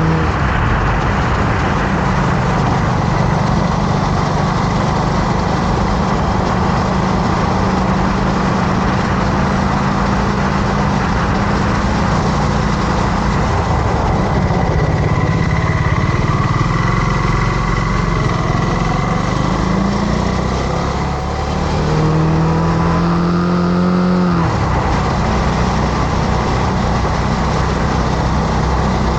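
Motorcycle engine running under way, with heavy wind and road rush over it. About twenty seconds in the engine note climbs for a few seconds, then drops suddenly.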